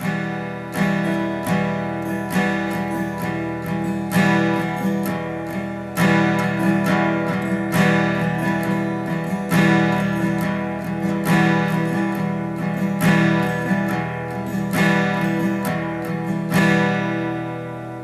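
Acoustic guitar strummed in a steady down, down, up, down pattern, bar after bar. The last chord is left to ring and fade near the end.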